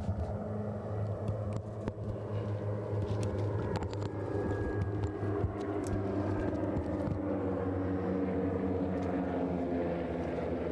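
Propeller airplane engine droning steadily, its pitch drifting slightly up and down.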